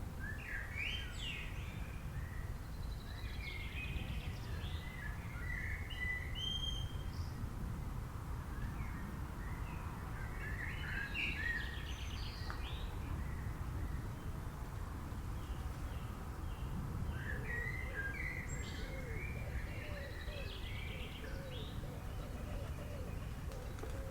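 Several small birds chirping and singing in clusters of short notes and whistles: the first cluster begins right away, another comes about ten seconds in and another about seventeen seconds in. A steady low rumble runs underneath.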